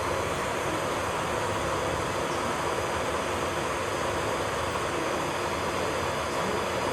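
Steady whirring hiss of electric nail-salon equipment running without a break: an e-file nail drill working on the nails, with the table dust collector's fan.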